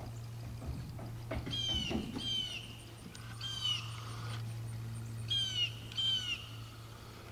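A bird calling five times: short calls that slide downward in pitch, a pair, then a single, then another pair. A steady low hum runs underneath.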